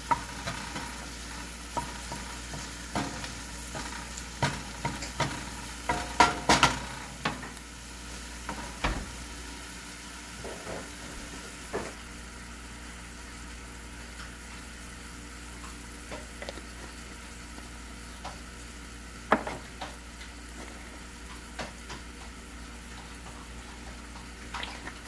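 Chopped onions and green onions sizzling in oil in a stainless steel skillet, with a wooden spoon scraping and knocking against the pan through the first several seconds, loudest about six seconds in. After that the sizzle goes on steadily, with an occasional knock.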